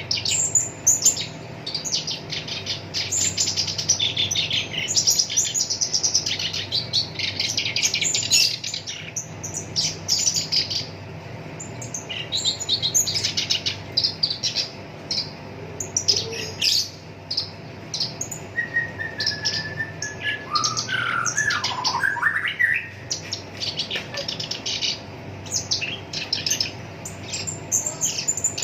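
Black-browed reed warbler singing a fast, harsh chattering song of rapid-fire notes in runs broken by short pauses, with a few slurred whistled glides about twenty seconds in.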